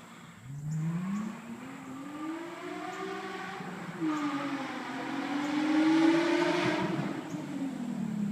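Nissan 350Z's V6 engine heard through an Agency Power single exhaust, being revved. The revs climb over about three seconds and dip, rise again about four seconds in and hold high, then fall away near the end.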